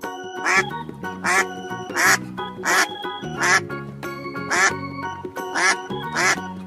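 Duck quacking: a series of about eight short quacks, under a second apart, over steady background music.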